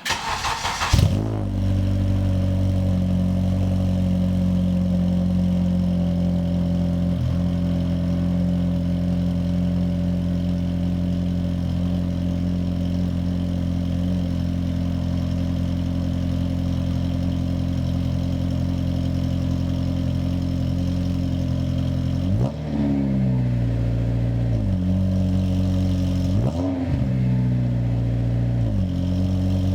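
Acura CSX Type-S's K20 four-cylinder, through a J's Racing 70RR exhaust, cold-starting: a brief crank, the engine catches about a second in with a loud flare, then settles into a steady, pretty loud fast idle. The engine speed rises and falls briefly twice near the end. The start is a bit rough, which the owner puts down to the car having been stored for a while.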